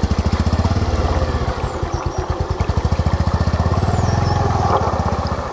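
Motorcycle engine running steadily while riding, with a rapid, even exhaust beat that swells slightly about four seconds in.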